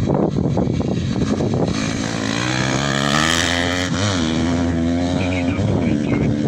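The engine of an off-road rally vehicle approaches at speed and passes by. Its pitch climbs, then drops sharply about four seconds in as it goes past.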